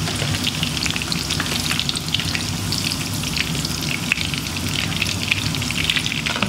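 Tofu cubes frying in hot oil in a nonstick pan: a steady sizzle of many small crackling pops while the cooked pieces are lifted out with a slotted spoon.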